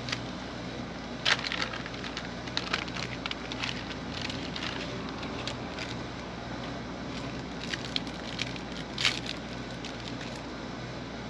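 Scattered clicks and clatters of parts and tools being handled during a motorcycle air cleaner install, the sharpest about a second in and again near the end, over a steady low hum.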